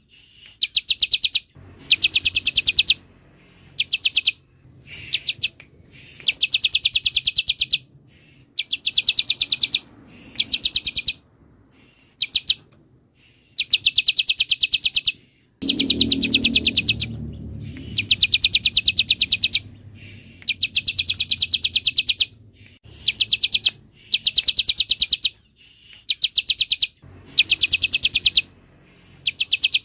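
Bar-winged prinia (ciblek) giving its cicada-like 'semi' song: bursts of very fast, evenly repeated high notes, each from under a second to about two seconds long, with short pauses between.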